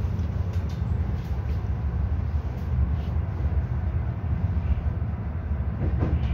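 Steady low rumble of a GYSEV Stadler FLIRT electric multiple unit running at speed, heard from inside the passenger car, with a few faint clicks.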